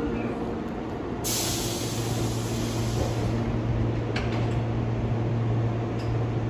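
Tobu 8000 series electric train standing at a platform with a steady low hum. About a second in, a sudden burst of compressed-air hiss starts and then fades, followed by a couple of short knocks around four seconds in.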